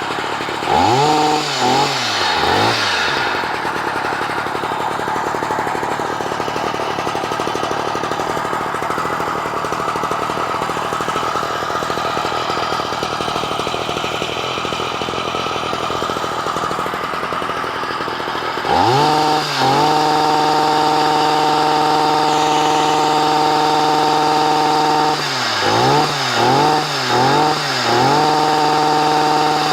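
Stihl MM55C tiller's small engine running on its newly replaced carburetor. It is blipped up and down twice at the start and runs slower and rougher for a while. About two-thirds through it is opened up to a high steady speed, and near the end the throttle dips and comes back three times.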